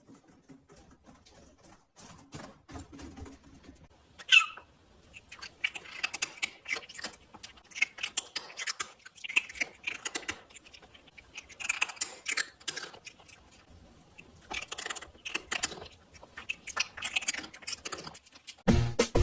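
Small animals scuffling and scratching in quick irregular bursts, with one short high squeak about four seconds in.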